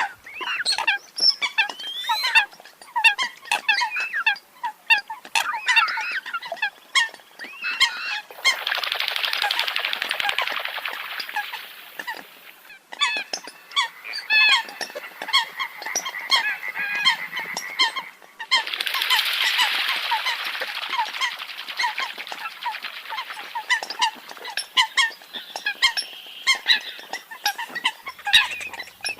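Eurasian coot (sâm cầm) calling: a rapid run of short, honking calls repeated over and over, with two stretches of hissing noise under the calls, about a third and two thirds of the way through.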